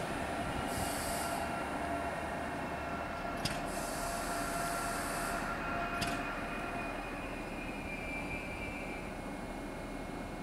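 ÖBB commuter train, a cab car leading, running slowly into the platform and braking almost to a stop. Over a rumble there is a steady high whine, two hisses of air and a couple of sharp clicks; the whine fades out about seven seconds in.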